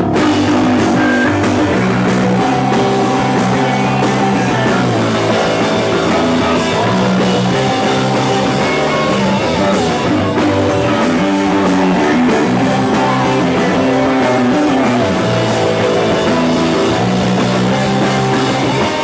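Live rock band playing the instrumental opening of a new song, guitar and drum kit, loud and steady before the vocals come in.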